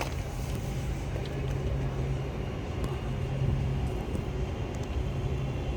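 Electric train on the Cross City Line running at the station with a steady low hum.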